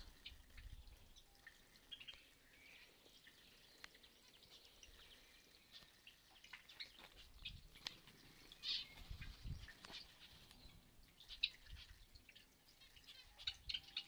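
Faint chirping of small cage birds in an aviary: scattered short, high chirps that grow busier near the end, with a soft low rumble about nine seconds in.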